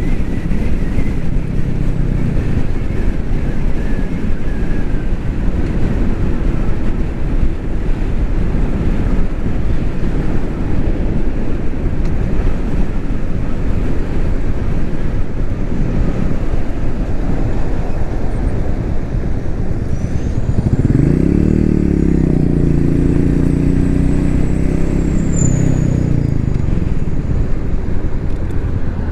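Royal Enfield Meteor 350 single-cylinder motorcycle riding along with steady engine and road noise. About two-thirds of the way through, an engine note rises in pitch and then falls away over several seconds.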